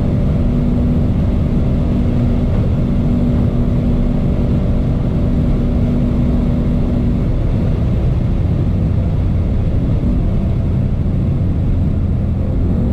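2019 Ford Mustang GT's 5.0-litre V8 running hard at about 6,000 rpm in eighth gear at a flat-out 260 km/h, heard inside the cabin under heavy wind and tyre noise. About seven seconds in, the steady engine tone drops away as the throttle is released, and the car coasts down with its ten-speed automatic shifting down to seventh.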